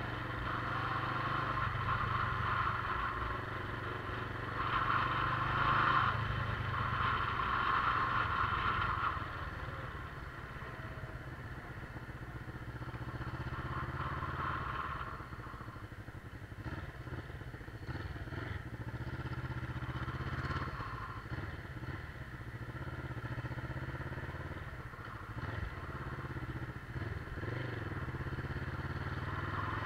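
Motorcycle engine running while riding, a steady hum that swells and eases, louder in the first ten seconds.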